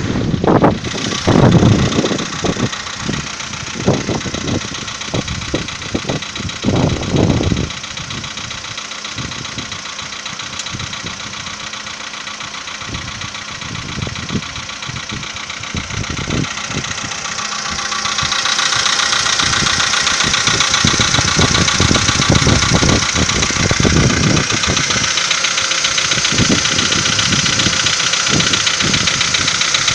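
Volkswagen Polo Sedan's engine idling about a minute after a cold start, with a knock that the owner asks may be piston knock. Irregular low thumps come in the first several seconds, and a louder hiss joins a little past the middle.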